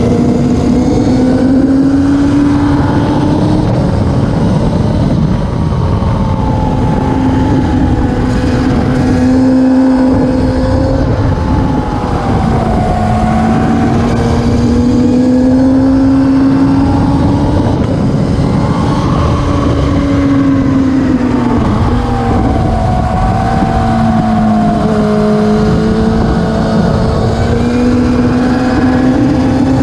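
Classic superbike racing motorcycle engine running hard and continuously, its pitch slowly rising and falling every few seconds.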